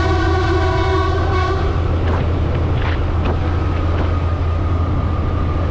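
A Vietnamese train's horn sounds one steady note for about a second and a half at the start, over a constant low rumble of a moving scooter's engine and wind.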